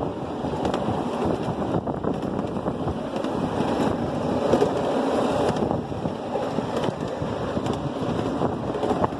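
Steady running noise of a ride-on miniature railway train moving along its track, mixed with wind buffeting the microphone.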